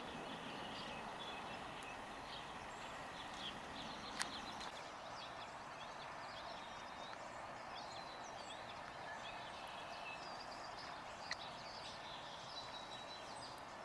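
Small birds chirping faintly over a steady background hiss, with two sharp clicks, about four and eleven seconds in.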